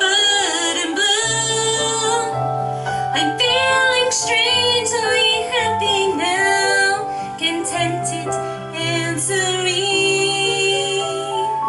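A woman singing a slow, sustained ballad line with vibrato over a musical-theatre accompaniment with a low bass line.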